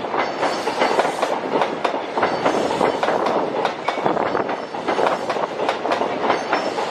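A train moving along the track, its wheels clattering over the rail joints with many sharp, irregular clicks over a steady rumble.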